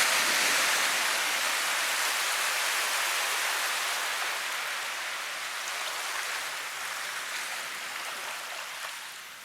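Steady rushing water, like heavy rain or a stream, that slowly fades and then drops away near the end.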